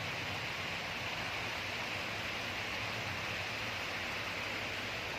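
Heavy storm rain falling steadily, an even rushing hiss, with a low hum underneath.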